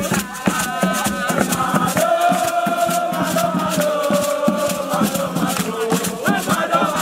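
A group of voices chanting a song in long held notes over a fast rattling percussion rhythm.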